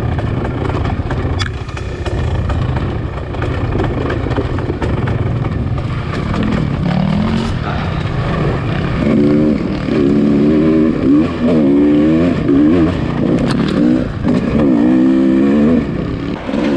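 Dirt bike engine heard from on board, running continuously and revving up and down over and over as the throttle is opened and closed, most strongly in the second half.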